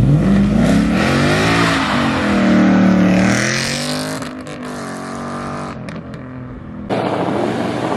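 Ford Mustang engine revving hard: the pitch climbs at the start, holds high for a few seconds, then falls away. About seven seconds in, the sound abruptly gets louder and noisier.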